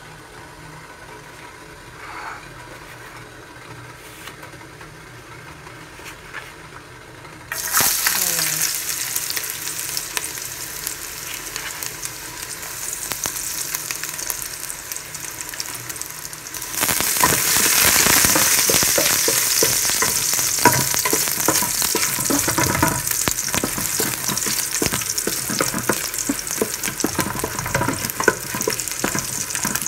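Chopped garlic sautéing in hot cooking oil in an aluminium pot. The sizzle starts suddenly about a quarter of the way in, when the garlic goes into the oil, and grows louder a little past halfway. Under it are the taps and scrapes of a wooden spatula stirring against the pot.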